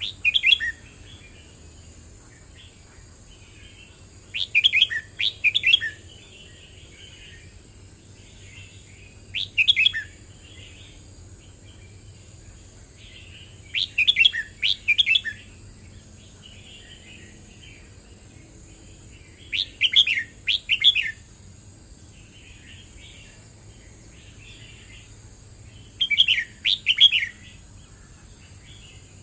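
Red-whiskered bulbul singing short, bright, warbled phrases that repeat about every five seconds, with soft twittering between phrases.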